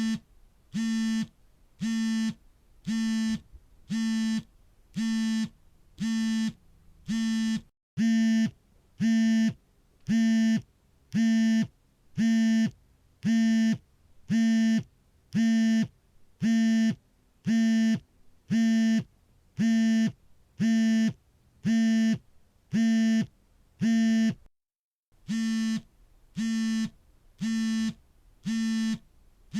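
Smartphone vibration motor buzzing for an incoming call, in short even pulses about once a second. Each buzz is a steady low hum. The pulses stop briefly twice, and are a little louder between those breaks.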